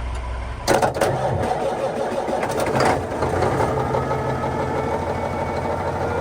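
Truck engine being started by bridging the starter motor's terminals directly: the starter cranks suddenly a little under a second in, the engine catches, and it settles into steady running.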